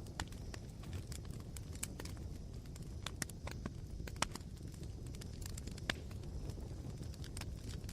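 Campfire of smouldering wood embers crackling, with irregular sharp pops and snaps, the loudest about four and six seconds in.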